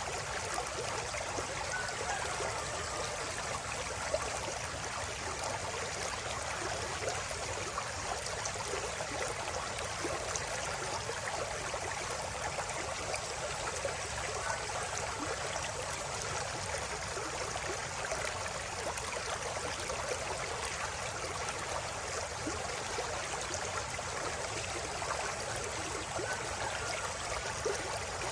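River water flowing, a steady, even rush of running water with no pauses.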